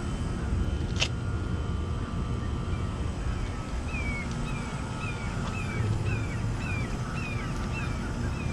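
Old Ruud air-conditioner condensing unit running, its three-blade condenser fan and compressor making a steady low hum. From about four seconds in, a series of short falling chirps repeats about twice a second over it, with a single sharp click about a second in.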